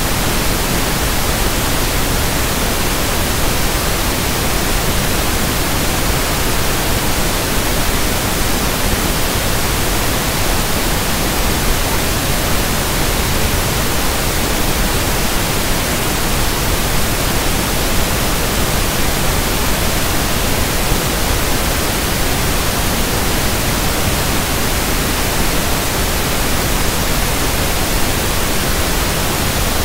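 Synthetic pink noise (1/f noise): a steady, even hiss with no change in level.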